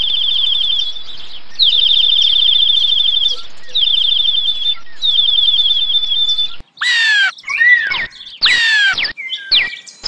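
Birds singing and calling: four fast, high-pitched trills, then from about two-thirds of the way in several short, harsh calls that slide down in pitch.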